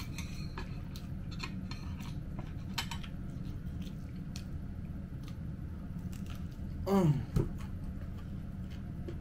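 A person chewing food, with scattered small wet mouth clicks over a low steady hum. There is a short falling vocal sound about seven seconds in.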